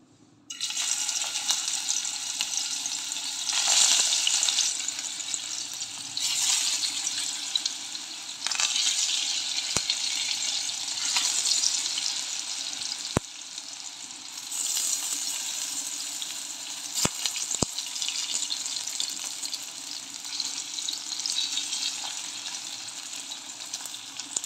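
Besan-coated eggplant slices sizzling in hot mustard oil in a frying pan. The sizzle starts suddenly about half a second in and swells several times as more slices go in, with a few light clicks along the way.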